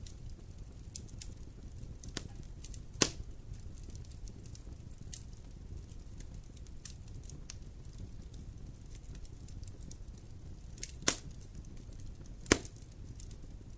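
Wood fire in a fireplace crackling over a low steady rumble of flames, with scattered small ticks and three louder sharp pops: one about three seconds in and two close together near the end.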